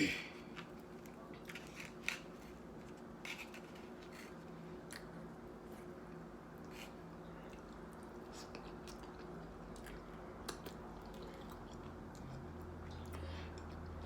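A person chewing food, with scattered faint wet clicks and smacks of the mouth over a low steady hum.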